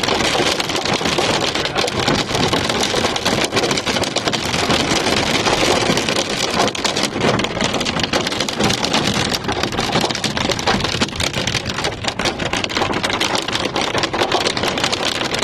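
Rain and hail pelting a moving car, a steady rush of downpour with dense sharp ticks of hailstones striking the body and glass.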